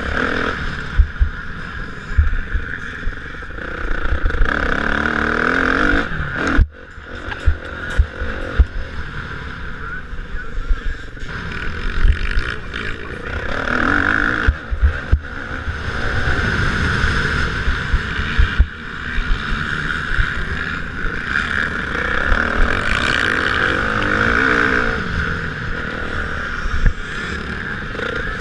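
Motocross bikes racing, their engines revving up and down as they pass, with scattered low thumps.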